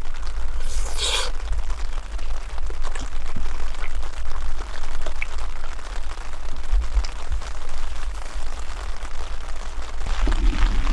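Wood campfire crackling with scattered small pops, under a heavy rumble of wind buffeting the microphone; a short rush of noise comes about a second in.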